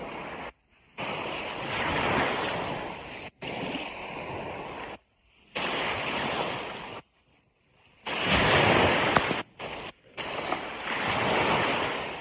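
Ocean surf washing on a beach, a steady rushing noise that swells and eases in waves. Several times it cuts off abruptly into brief silences before returning.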